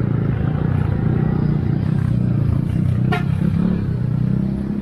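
Steady low rumble of road traffic and wind on the microphone while riding a bicycle along a highway, with a brief high chirp about three seconds in.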